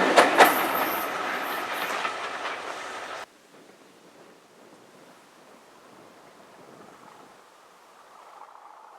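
A train on a heritage railway runs past and away, its wheels clicking over the rail joints. It fades for about three seconds, then cuts off suddenly to faint outdoor background noise.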